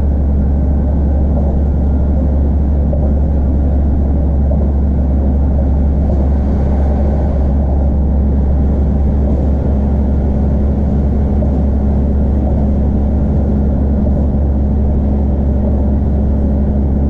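Inside an Iarnród Éireann Class 2600 diesel multiple unit running at speed: a steady low rumble of its diesel engine and wheels on the rails, with a constant hum.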